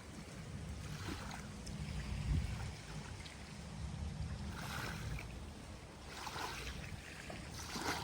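Small waves washing onto the beach, with hissing surges a few seconds apart over a low rumble of wind on the microphone.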